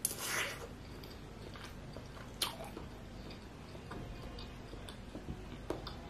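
A person biting into a jumbo bakso meatball and chewing it, a short noisy bite at the start, then quiet chewing with small mouth clicks and one sharp click about two and a half seconds in.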